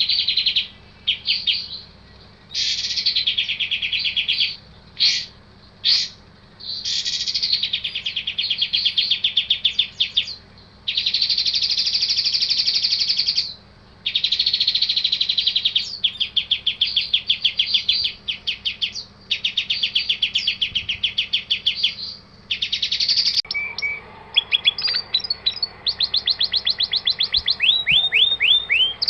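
Songbird song from a masteran recording, the bird-song track played to train competition songbirds: phrases of rapid, high trills and chirps a few seconds long, with short pauses between them. Near the end comes a run of quick downward-sliding notes.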